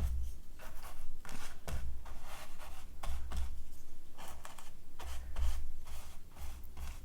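Torn gel-print paper being rubbed and pressed down onto the collage over wet matte medium, in repeated scraping strokes about twice a second, with low dull thumps now and then.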